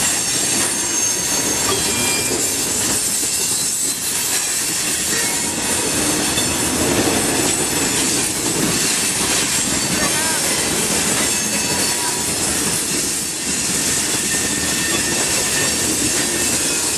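Union Pacific freight cars rolling past on the rails in a steady, unbroken rumble and rattle, with a faint wheel squeal now and then.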